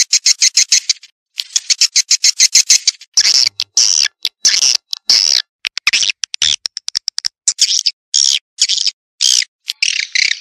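Swiftlet calls played as a lure: rapid trains of high clicks, then a string of short, high, buzzy chirps repeated with brief gaps.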